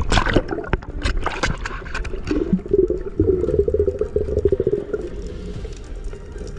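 Water sounds: a run of sharp clicks and knocks, then a rapid gurgling with a low buzz for a couple of seconds, fading into steady water noise.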